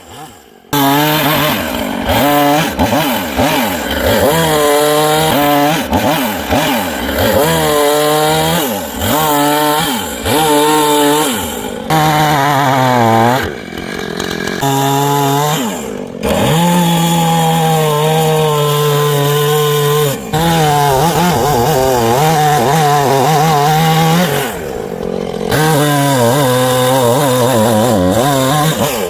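Gasoline chainsaw bucking logs into firewood lengths: the engine revs up and falls back over and over through the cuts, with a few brief drops between them.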